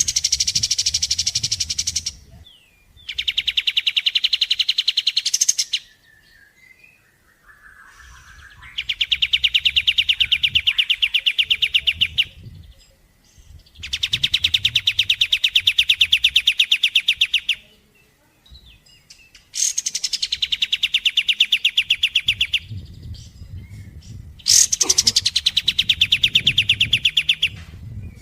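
A bird giving six rapid trills, each a fast, even run of repeated notes lasting a few seconds, with short pauses between. Each trill opens on a higher note.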